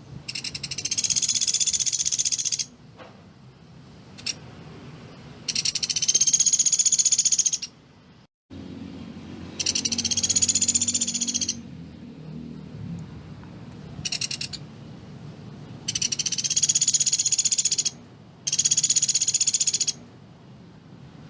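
Pelatuk beras woodpecker giving rapid, high-pitched machine-gun trills in repeated bursts of about two seconds each, with short pauses between them; one burst is brief.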